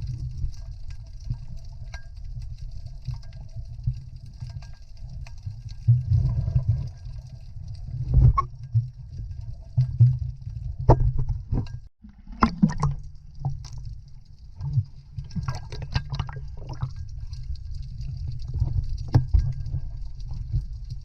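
Muffled water sloshing and splashing, mostly a low rumble with irregular louder surges and a few sharp splashes; it breaks off for an instant about twelve seconds in.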